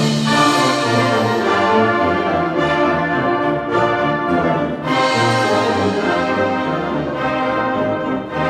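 Wind band playing loudly, with trombones, horns and trumpets to the fore, in full sustained chords that change every second or so.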